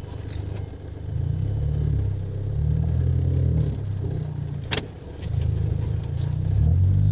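Car driving, a low engine and road rumble that swells and fades, with a single sharp click about two-thirds of the way through.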